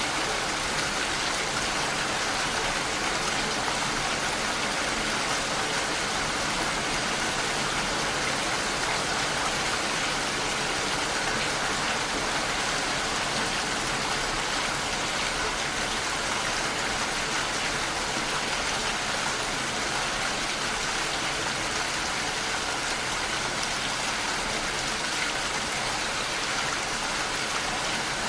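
Steady rain pattering against a window pane, an even, unbroken hiss of drops.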